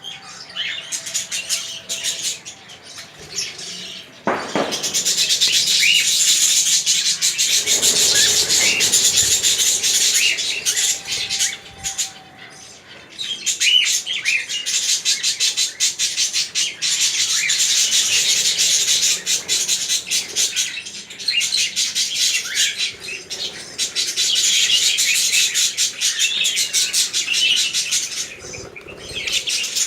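Many small birds chirping and chattering densely and without pause, easing off briefly about twelve seconds in and again near the end, with a single knock early on.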